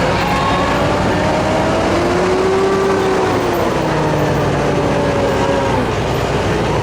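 Tractor engine running steadily, its pitch slowly rising and falling over a dense rumble.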